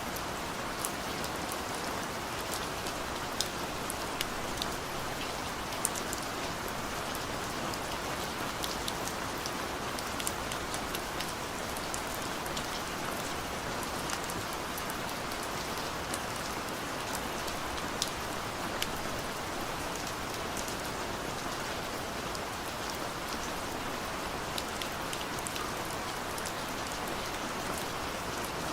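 Heavy rain pouring down: a steady hiss of rainfall with many scattered sharp drop ticks on a surface.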